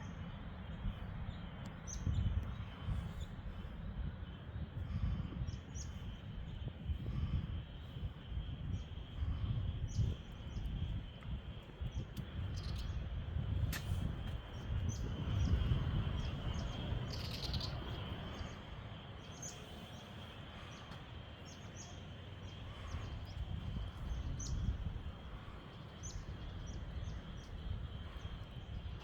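Outdoor park ambience: many short bird chirps scattered throughout, over a gusting low rumble of wind on the microphone and a faint steady high hum.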